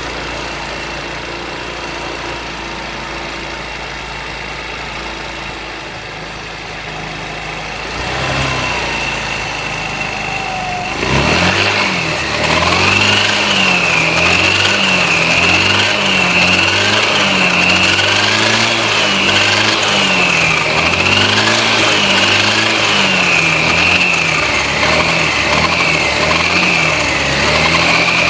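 Chinese 157 GY6-type scooter engine with CVT variator, idling at first, then from about eleven seconds in revved up and down over and over, with a whine that rises and falls with the revs. This is the variator humming that the owner is asking how to cure.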